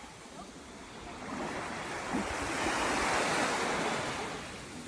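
Sea waves washing onto the shore, one swell building to a peak about three seconds in and then fading.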